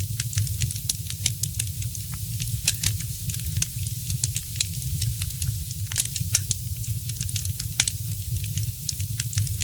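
Wood fire crackling in a fireplace: frequent irregular sharp snaps and pops over a steady low rumble.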